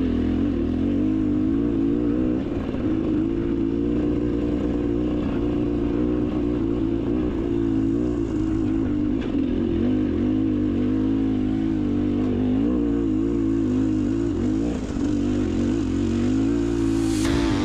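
Two-stroke engine of a Beta Xtrainer dirt bike running under riding load, its revs rising and falling continually as the throttle is worked along the trail.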